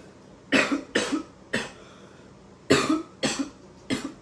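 A man coughing hard, about six harsh coughs in two fits, after drawing on a vape.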